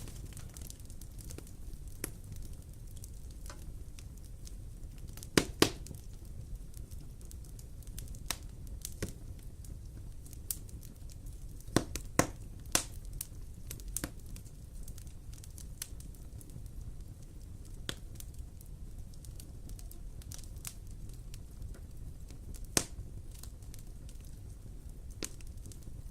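Wood fire in a fireplace crackling: irregular sharp pops and snaps over a low steady rumble of burning, with the loudest pops in quick pairs.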